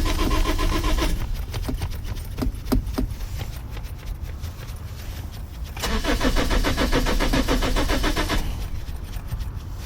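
Car's starter cranking the engine in two bouts without it catching: the first bout stops about a second in, and the second runs from about six to eight and a half seconds. Between them come a few sharp clicks over a steady low rumble.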